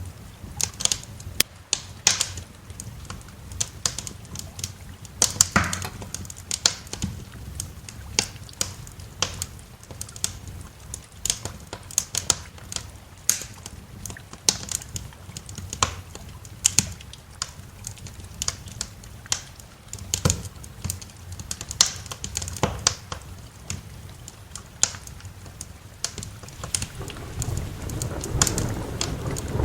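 Wood fire crackling in a fireplace: irregular sharp pops and snaps over a low rumble. Near the end, rain and a roll of thunder swell in.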